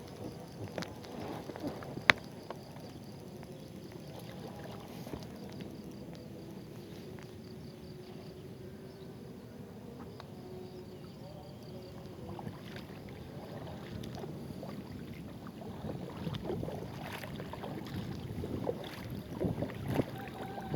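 Water splashing and sloshing around a kayak as it is paddled along a river, with one sharp knock about two seconds in. The splashing grows busier and louder near the end.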